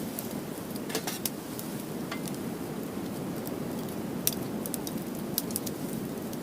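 Wood fire crackling in a fire pit: a steady low rush of burning firewood with scattered sharp pops, the loudest about four seconds in.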